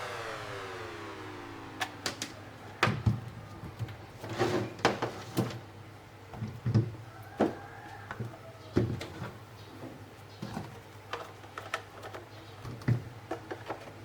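Scattered sharp clicks and light knocks of hard parts being handled and fitted together by hand, spaced unevenly, some in quick pairs.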